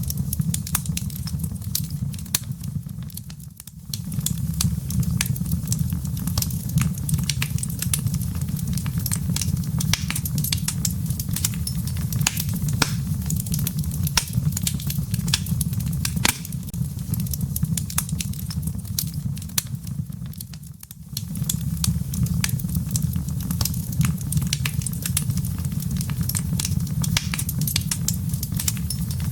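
Wood fire in a fireplace crackling: dense, irregular sharp pops and snaps from the burning logs and embers over a low steady rumble of flame, which dips briefly twice.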